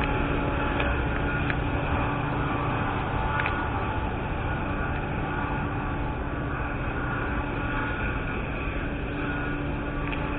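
Metra diesel commuter train pulling away: a steady low rumble of the locomotive and rolling cars that slowly fades as the train recedes.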